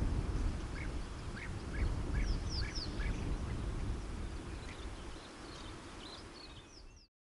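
Wild birds calling: a run of short repeated notes, with a few quick high falling chirps in small groups, over a low rumbling background noise. The sound fades steadily and cuts off just before the end.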